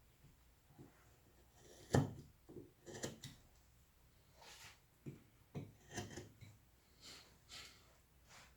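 Hand carving wood: irregular short cuts and scrapes of a carving tool on wood, with a few sharp knocks, the loudest about two seconds in.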